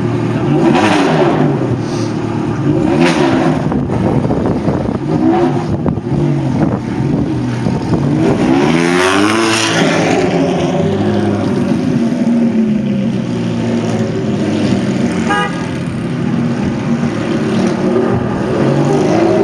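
Ferrari F430 V8 engines revving and pulling away, the pitch rising and falling with each blip of the throttle; the loudest rev swells and falls about halfway through. The first car runs through an aftermarket exhaust.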